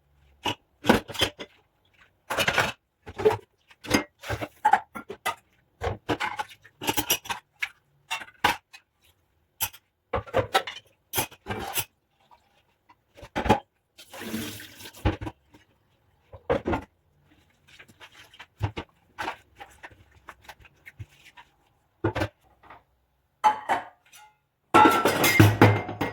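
Dishes being washed by hand: a run of clinks, knocks and clatters as plates and cutlery are handled, with a brief rush of water about halfway through and a louder burst of clattering near the end.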